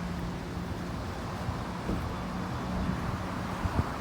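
Road traffic in the rain: a steady wash of vehicle and wet-road noise with a low, even engine hum, and a light knock just before the end.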